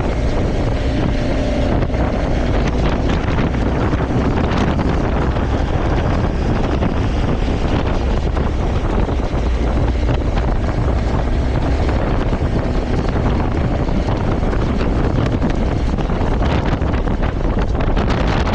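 Wind rushing steadily over the microphone of a moving motorcycle, with its engine running underneath.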